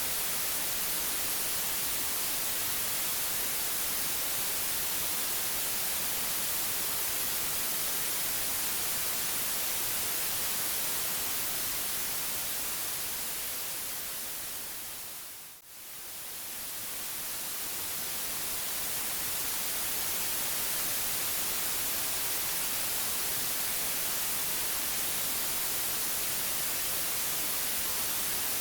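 Steady white noise, an even hiss brightest in the treble. About halfway through it fades down to almost nothing over a few seconds, then swells back up to the same steady level.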